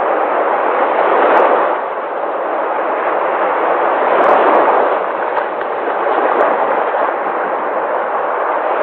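Sea waves washing onto a shore: a continuous rush of surf that swells and ebbs every few seconds.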